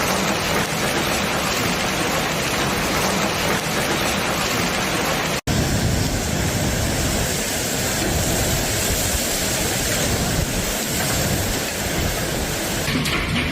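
Heavy rain pouring down in a thunderstorm, a dense steady hiss. A split-second break about five and a half seconds in, after which the downpour carries on.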